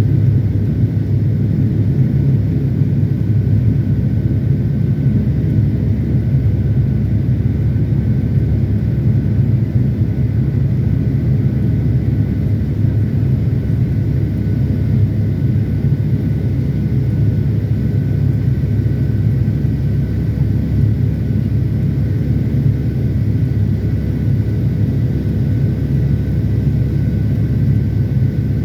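Boeing 757-300 in flight heard from inside the economy cabin: a steady, unchanging low drone of engines and airflow, with a few faint steady whining tones above it.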